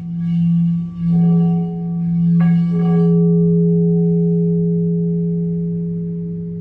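Singing bowl ringing with a deep, pulsing hum. It is struck again about two and a half seconds in, adding a higher ringing tone that slowly fades.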